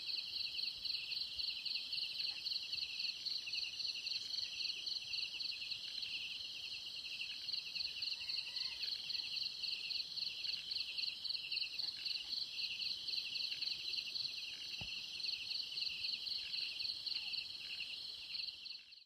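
Chorus of insects trilling in rapid, evenly repeated pulses at two pitches. A few faint bird calls come in about halfway through, and everything fades out at the end.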